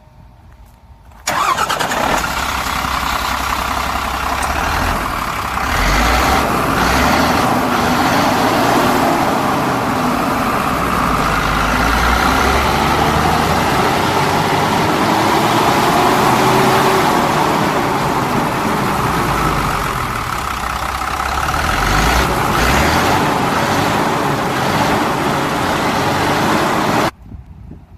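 Diesel engine of a 2006 Hyundai Mega fire truck running steadily, its sound swelling and easing slightly. It comes in abruptly about a second in and cuts off abruptly near the end.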